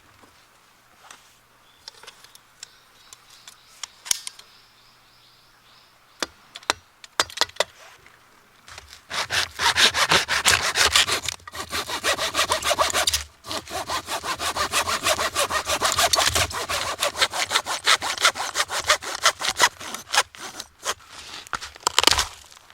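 Wood being sawn by hand in rapid back-and-forth strokes, starting about nine seconds in, with a short pause partway through. Before that there are only scattered light clicks and knocks.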